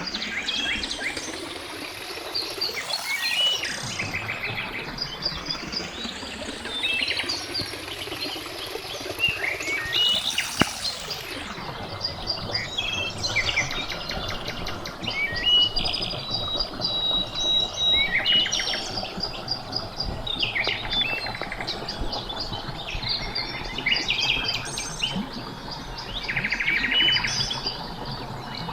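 Small songbirds chirping and trilling in a busy, overlapping chorus of short high calls. Twice in the first half, a broad whoosh swells and fades under the birdsong.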